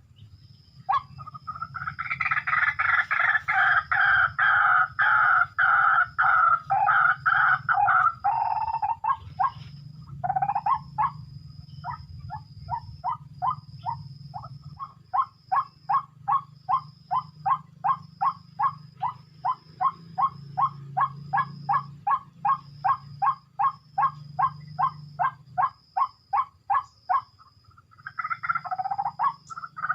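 White-breasted waterhen calling: a loud, harsh run of rapidly repeated notes starting about a second in. After a pause comes a long, even series of croaks at about three a second, breaking off near the end and then starting again. A faint high steady buzz runs underneath.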